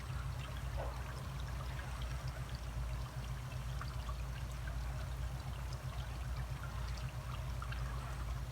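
Water running steadily down a trough toward a backyard pond, trickling with scattered small splashes over a steady low rumble.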